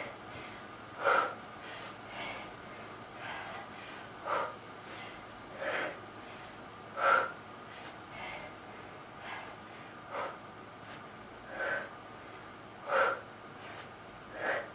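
A woman breathing hard and rhythmically under exertion during a bodyweight workout, a sharp breath about every second and a half.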